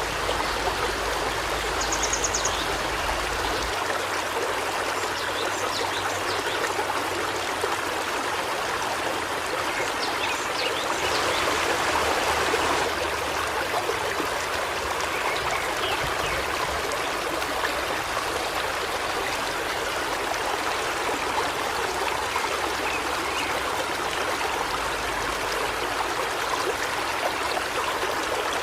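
River water flowing and babbling over rocks, with a few faint bird chirps.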